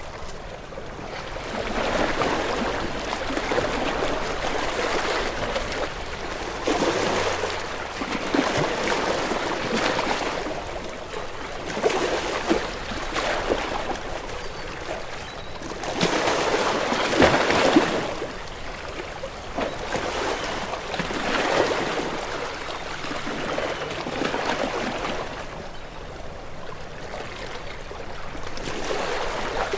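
Waves washing in and drawing back, a rushing, splashing water noise that swells and eases every few seconds, with the biggest surge about seventeen seconds in.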